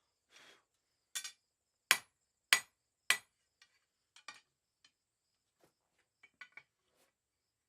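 Blacksmith's hammer striking a mild steel round bar on an anvil: four ringing blows about 0.6 s apart in the first half, then a few lighter taps.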